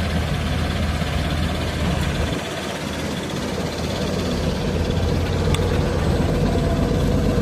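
A car engine running close by, a steady low rumble that eases off about two and a half seconds in and then gradually builds again.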